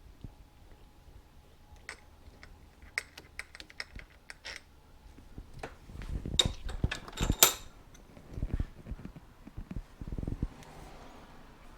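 Motorcycle fork parts being handled: a run of small metal clicks and taps, then louder knocking clatter about halfway through and a few dull thumps near the end.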